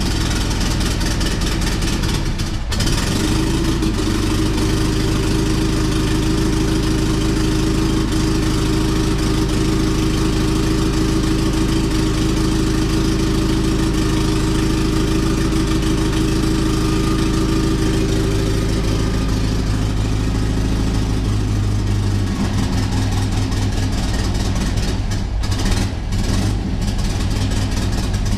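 1956 Volkswagen's air-cooled flat-four engine running steadily, still warming up after a cold start, with a brief dip about three seconds in and a change in its tone around twenty-two seconds in.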